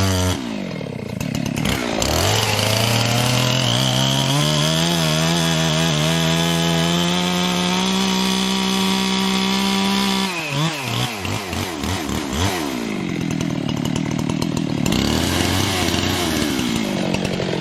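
Husqvarna 385 XP two-stroke chainsaw cutting into a black cherry trunk at full throttle, held steady under load for about eight seconds. Then it drops off, revs in short blips, and goes back to a steady cut near the end.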